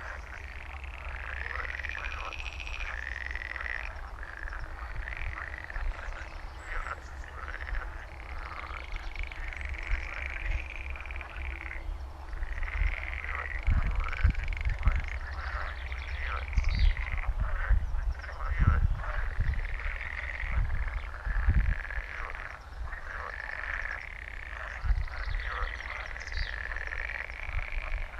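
A chorus of frogs croaking continuously, many calls overlapping. Irregular low thumps come in now and then, mostly through the middle.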